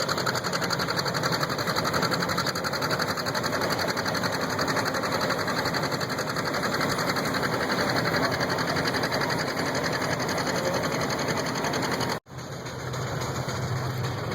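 Antique tractor engine running steadily with a rapid, even beat. It drops out abruptly for a moment about 12 seconds in, then resumes.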